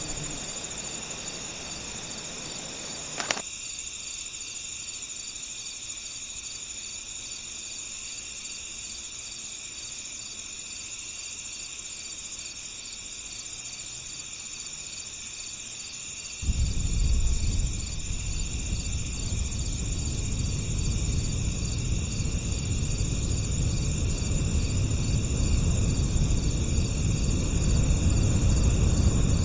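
Crickets chirping in a steady, dense chorus of high pulsing trills. A short click about three seconds in, and from about halfway a low rushing breeze comes in and slowly builds.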